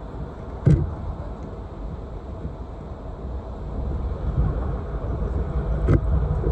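Train passing trackside with a steady low rumble that grows louder toward the end, broken by two sharp knocks, one just under a second in and one near the end.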